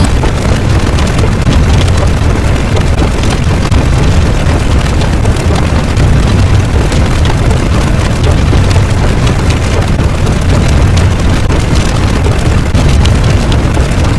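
Loud, steady low rumbling noise.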